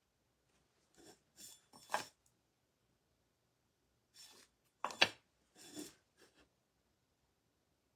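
Brief rubbing and scraping noises from painting tools and supplies being handled on the work surface, in two short clusters, each with a light click or knock, the sharpest about five seconds in.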